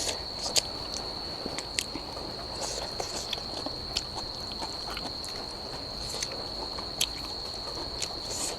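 Crickets trilling in one steady high tone, with scattered short clicks and soft smacks over it.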